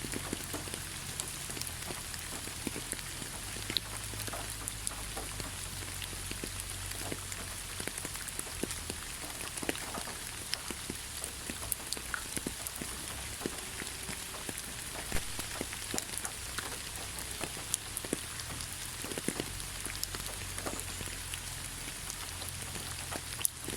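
Steady rain falling in a pine forest: a constant hiss with many separate drops landing close by as short clicks.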